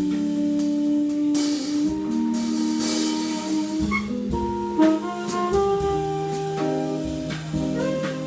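Jazz trio of tenor saxophone, guitar and drums playing; long held notes in the first half give way to a moving line of shorter notes about halfway through, over light drums.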